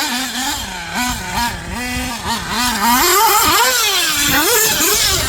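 Small nitro engine of a 1/8 RC buggy revving up and down again and again as it is driven round the track. From about three seconds in, it is louder, with more than one engine overlapping.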